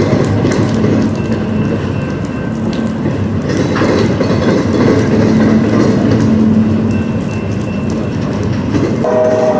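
Train cars rolling past, wheels clattering on the rails with a steady rumble. A locomotive horn starts to sound just before the end.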